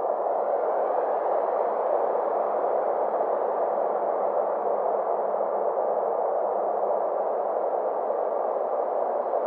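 Synthesized space ambience: a steady, mid-pitched wash of filtered noise, its faint upper edge slowly sweeping up and down.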